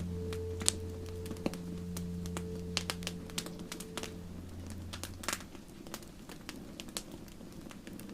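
Campfire crackling, with irregular sharp pops of burning wood, over a soft sustained low music chord that fades out about five seconds in.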